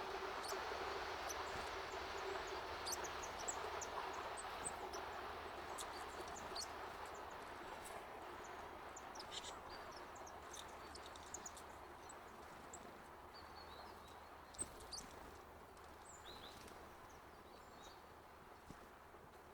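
Faint outdoor ambience: a broad hiss that slowly fades, with many short, high calls from small birds scattered through it and a couple of sharp taps about fifteen seconds in.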